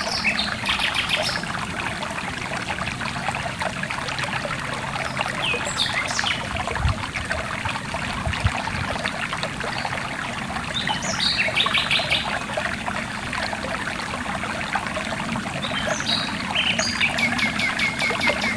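Stream water trickling and splashing steadily, with a small bird's rapid high trill heard several times over it.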